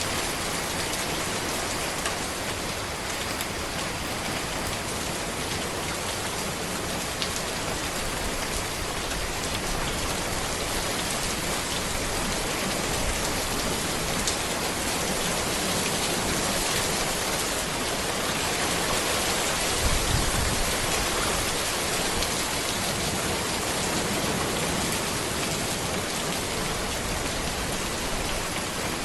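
Steady rain falling on a road and trees: an even hiss with scattered drops ticking. There is a brief low thump about two-thirds of the way through.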